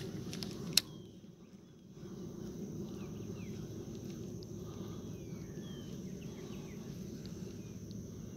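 Outdoor dawn chorus of small birds giving short falling chirps over a faint steady insect drone and a low background rumble, with one sharp click about a second in.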